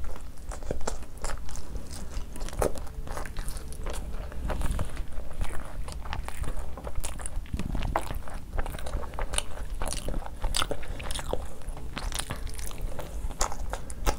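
Close-miked eating: a person biting, chewing and crunching food, an irregular run of sharp crunches and clicks.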